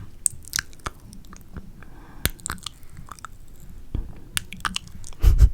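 Close-miked ASMR mouth sounds: scattered wet clicks, smacks and kisses. A louder low bump comes near the end.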